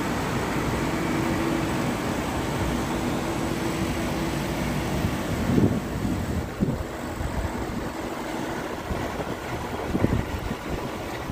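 A car engine idling: a steady low rumble with a faint steady hum, and a few short louder knocks about halfway through and again near the end.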